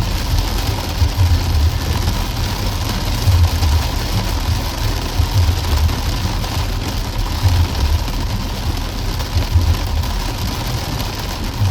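Vehicle travelling through heavy rain: a steady hiss of rain and road noise over a low engine and road rumble that swells about every two seconds.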